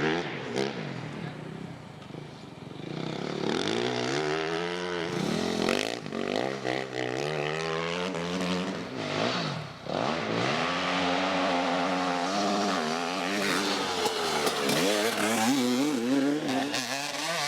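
Off-road motorcycle engine revving under way, its pitch climbing and dropping again and again as it accelerates, shifts and backs off.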